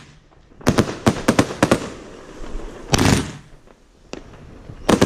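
Consumer fireworks bursting in the sky: a quick run of sharp cracks about a second in, one longer, heavier bang about three seconds in, and more cracks near the end.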